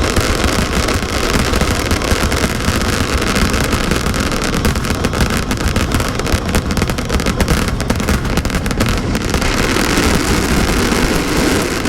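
Fireworks display: a dense, continuous crackle of many small pops over a steady low rumble.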